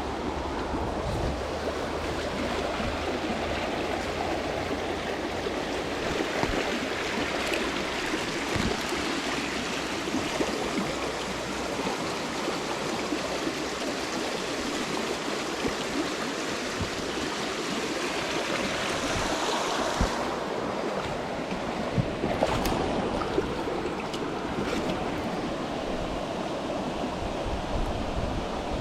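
Steady rush of flowing stream water, with a couple of brief knocks about two-thirds of the way in.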